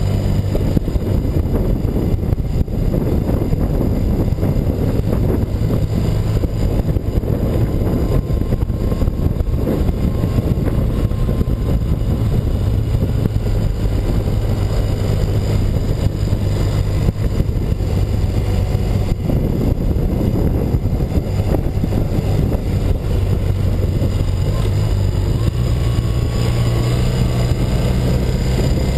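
A BMW R100RS's air-cooled flat-twin engine running steadily under way, with wind and road noise. The engine note shifts slightly lower about two-thirds through, then rises again near the end.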